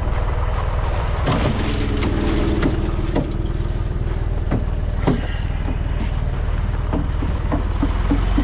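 A truck engine running steadily, with scattered knocks and clicks over it and a quick run of light ticks near the end.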